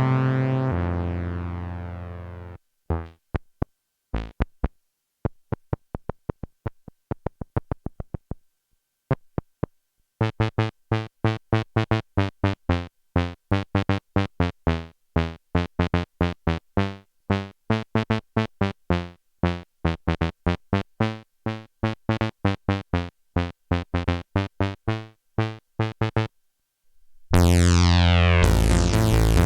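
Behringer JT-4000M Micro synthesizer playing factory preset sounds. A held note fades away, then sparse short plucked notes, then a long fast run of short staccato notes. Near the end a loud, bright held sound starts with a sweeping filter.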